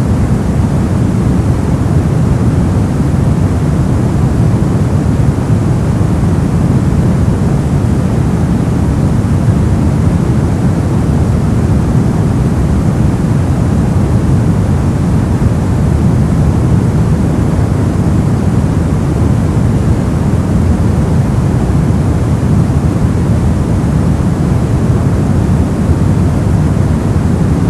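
Brown noise: a steady, deep rushing hiss, strongest in the bass and falling off toward the treble, unchanging throughout.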